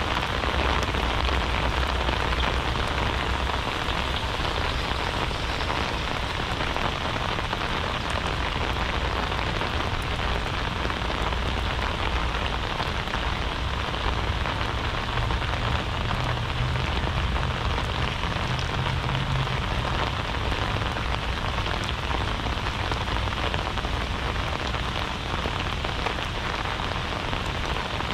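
Steady heavy rain, an even continuous hiss, with a low rumble underneath that swells slightly for a few seconds past the middle.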